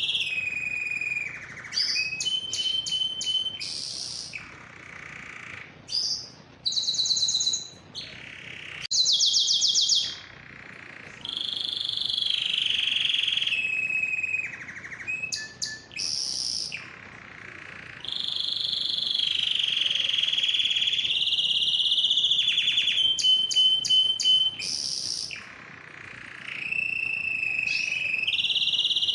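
Domestic male canary singing a long, varied song of held whistled notes, fast trills and rapid repeated rolls, broken by a few short pauses between phrases.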